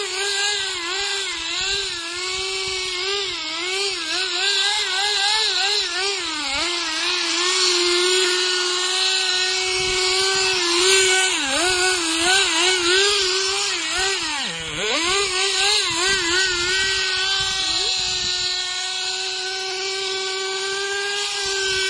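Supercharged nitro .18 RC engine running, its high pitch wobbling up and down with quick throttle blips; about two-thirds in it drops sharply and picks back up, then holds steady. It is freshly rebuilt and not yet tuned.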